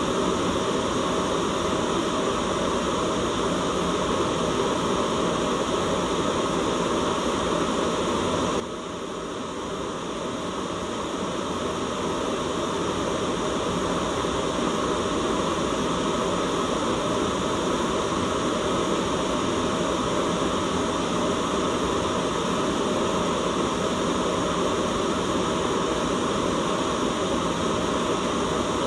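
Steady white-noise hiss, a constant even rush with no rhythm. About nine seconds in it suddenly drops in level, then swells back to full over a few seconds.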